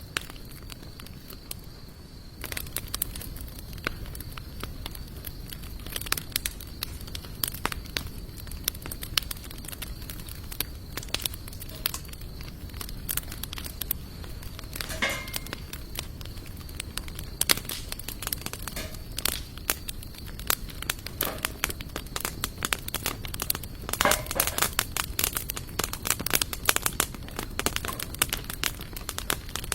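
Campfire of sawtooth oak and mixed hardwood logs crackling, with sharp pops coming irregularly, thicker a couple of seconds in and again near the end.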